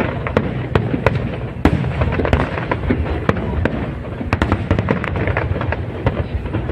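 Aerial fireworks display: a dense, continuous run of booms and crackling cracks over a low rumble, with an especially sharp bang about a second and a half in.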